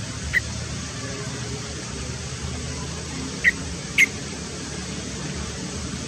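Three short, sharp bird chirps: one just after the start, then two in quick succession about three and a half seconds in. They sit over a steady low rumble and hiss.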